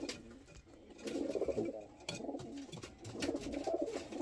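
Domestic pigeons cooing: two bouts of low, warbling coos, about a second in and again near the end.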